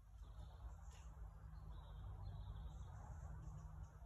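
Quiet garden ambience: faint bird chirps over a low steady hum, with a soft click about a second in.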